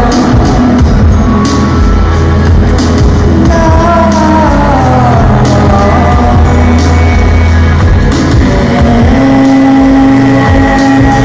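Live band playing a pop-rock song at full volume: drums, heavy bass and a melody line that glides up and down, with a long held note near the end.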